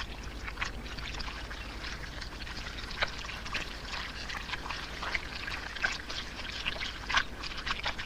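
Giant catfish crowded in shallow liquid mud, splashing and gulping air: many short wet pops and plops come irregularly, over a steady low hum.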